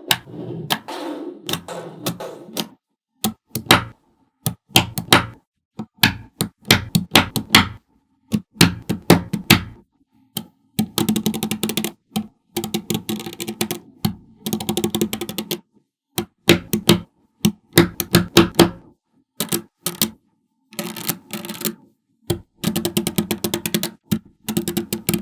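Small magnetic balls clicking and clacking against each other in quick runs as they snap together, with brief silent gaps between the runs.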